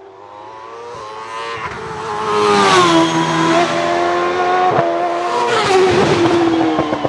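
A hillclimb race car's engine at full throttle, coming closer and getting louder over the first three seconds, then staying loud as it passes, with its note dropping twice.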